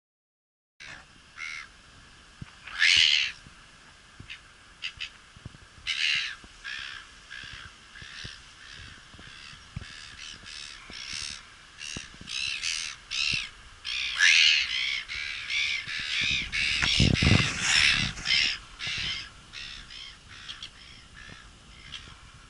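Birds calling with harsh, repeated cries: a few scattered calls at first, then a dense run of overlapping cries through the middle, thinning near the end.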